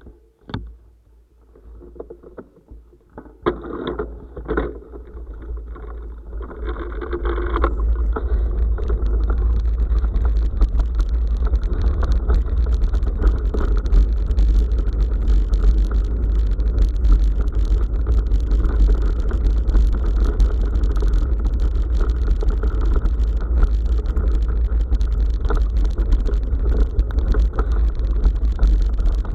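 Wind buffeting the action camera's microphone and tyres rattling over a rough forest track as the bicycle picks up speed: a few knocks in the first few seconds, then the rushing rumble builds over several seconds and stays loud and steady.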